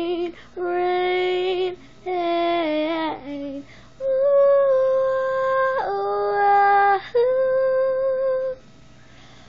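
A girl singing unaccompanied in a run of long held notes, several drawn-out sung phrases one after another. The voice stops about a second before the end.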